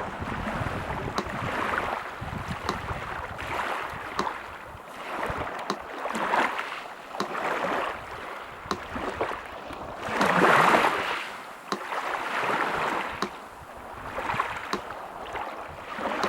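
Sea surf washing in, rising and falling in swells, the biggest about ten seconds in, with a metronome ticking steadily about once every second and a half.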